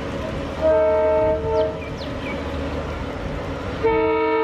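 Train horn blowing a chord over the rumble of a moving train. It gives a short blast under a second in, and then a long blast near the end. Two brief high falling squeaks come in between.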